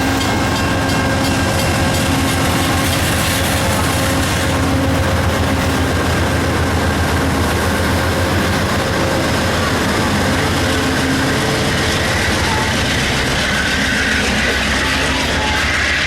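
A train passing close by, loud and steady throughout, its wheels making a fast, even clatter that is strongest in the first half.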